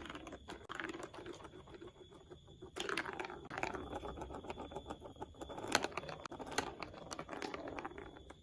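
Plastic marble run building blocks being handled, with many small irregular clicks and rattles, a few of them sharper knocks.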